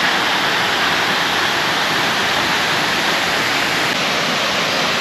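Cascade of the Erawan Waterfall at its fifth tier: a steady rush of falling water.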